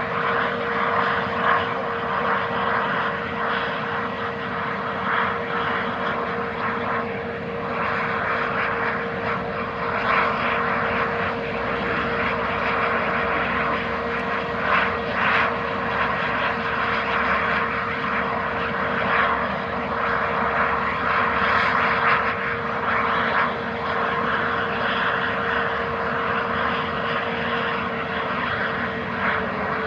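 Jet engines of an Airbus A320-251N, CFM LEAP-1A turbofans, running steadily: a continuous rush of engine and air noise with a constant whine held throughout.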